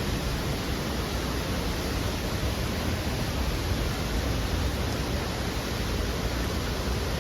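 Waterfall, a steady rush of falling water with no change or break.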